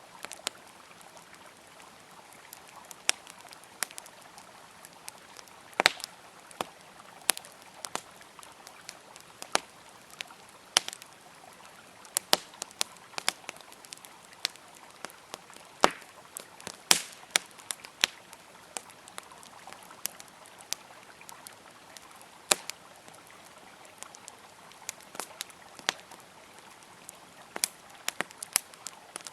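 Wood fire crackling with sharp, irregular pops, some in quick clusters, over the steady rush of a flowing river.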